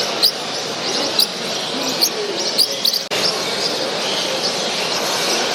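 Many small caged birds chirping in short, sharp, irregular calls over the steady murmur of a large exhibition hall full of people.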